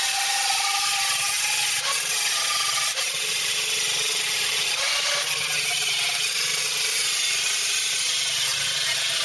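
Angle grinder grinding back fresh welds on car-body sheet steel: a steady abrasive hiss with a motor tone that shifts in pitch as the disc is pressed on and eased off.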